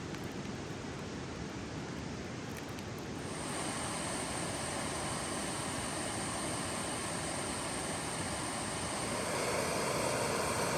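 Steady rushing of river water, an even noise that shifts and grows a little louder about three seconds in and again near the end.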